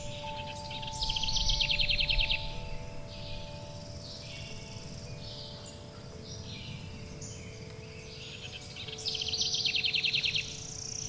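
Forest birds chirping and singing, with two loud rapid trills, one about a second in and one near the end. Underneath are long, soft ringing tones from wind chimes and a steady low rumble.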